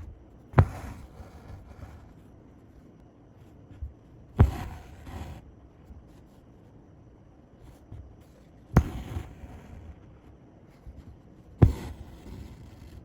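Needle punching through fabric stretched taut in an embroidery hoop, four times about four seconds apart, each sharp pop followed by a short rasp as the thread is drawn through while working chain stitch.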